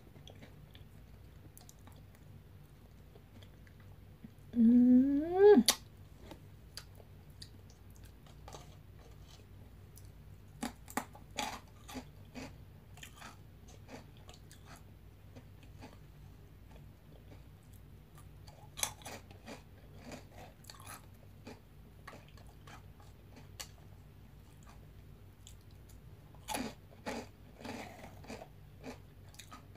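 Veggie straws being bitten and chewed close to the microphone: crisp crunches in scattered clusters with quiet between. About four seconds in, a loud sound rising in pitch lasts just over a second, louder than the crunching.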